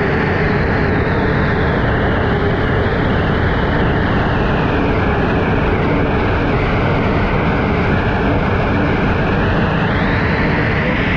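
Unlimited hydroplane heard onboard at racing speed: the gas-turbine engine and the rush of wind and water combine into a loud, steady roar-like noise. The hiss dulls a little midway and brightens again near the end.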